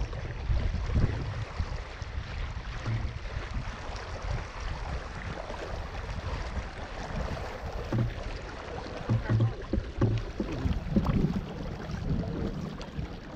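Wind buffeting the microphone over water lapping and splashing against the hull of a small RS Zest sailing dinghy under way. There are a few knocks about eight to eleven seconds in.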